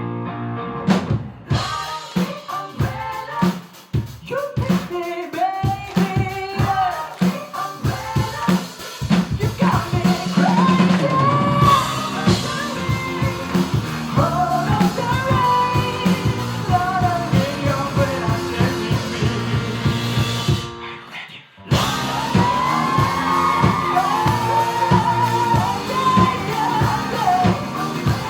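Live pop-rock band with a singer: vocals over drum kit, guitar and bass. The first several seconds go in choppy stop-start hits, then the full band plays on. About three-quarters of the way through, the whole band cuts out for under a second and comes straight back in.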